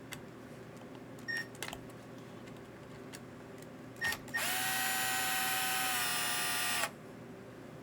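A small electric motor runs with a steady high whine for about two and a half seconds, starting and stopping abruptly, after a few light clicks and two short chirps.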